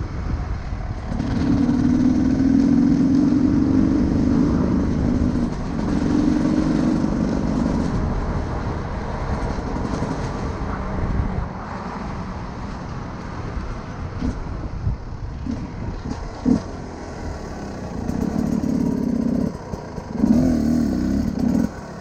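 Enduro motorcycle engine running while riding: it pulls strongly and steadily for several seconds about a second in, then eases to a lower, softer running with a few short blips, and picks up again near the end.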